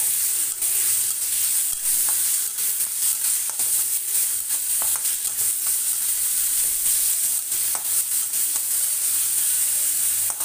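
Grated onion, garlic and ginger paste sizzling steadily in hot oil in a kadhai, being fried to cook off the raw onion, while a spatula stirs it and clicks against the pan now and then.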